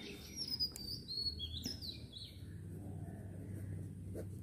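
Small birds chirping in the background: a run of short, quick sliding chirps over the first two seconds, over a faint steady low hum. A brief scratch of a pen on paper comes near the end.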